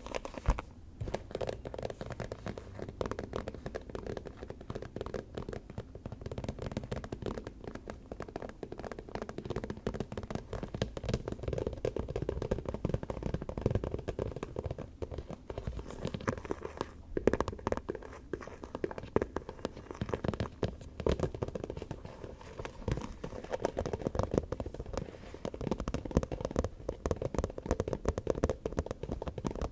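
Fingers tapping and scratching fast on a small object, a dense unbroken run of small clicks.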